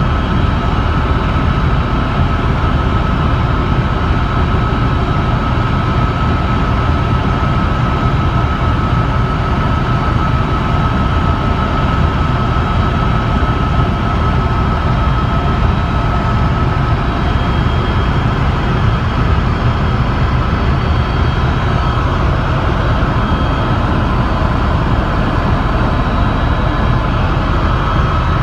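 Helicopter cabin noise in flight: a steady heavy rotor and turbine rumble, with a constant high whine on top that weakens in the last several seconds.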